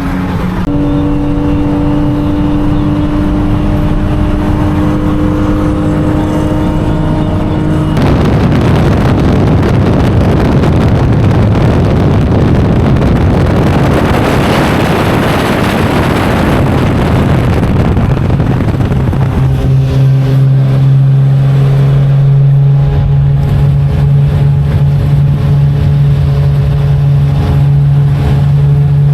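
Car driving along: the engine runs at a steady speed, then about eight seconds in loud wind and road noise takes over for about ten seconds, and from about 19 seconds on a strong steady engine drone returns.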